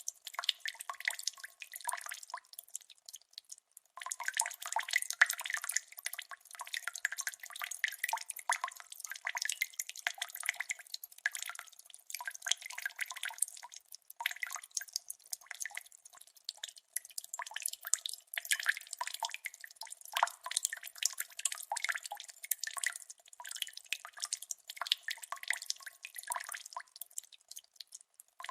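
Water drops dripping in a quick, irregular patter of many small drips and plops, thin with no low end, with a brief pause about three seconds in.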